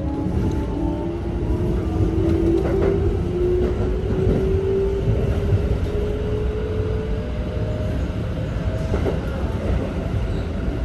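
Keikyu 1500 series train's Toyo GTO-VVVF inverter and traction motors whining with a tone that climbs slowly and steadily as the train accelerates, over the rumble of the wheels on the track.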